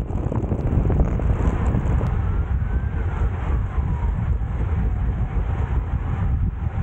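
Wind rushing over a bike-mounted action camera's microphone, with steady road and tyre rumble, while riding in a road race. A faint tone rises and then falls between about two and four seconds in.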